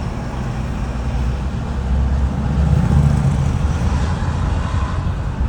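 Road noise of a moving car heard from inside: a steady low rumble that swells a little around the middle.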